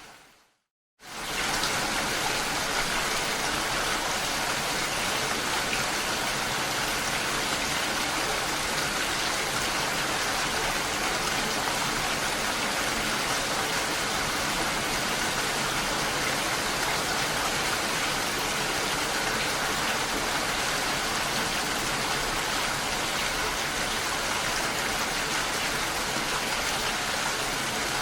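Steady rain, an even dense hiss that cuts in suddenly about a second in, after a moment of silence.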